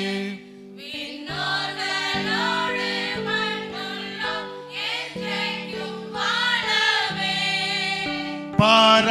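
Church hymn music between sung lines of a verse: sustained keyboard chords change every second or so, with choir voices singing over them.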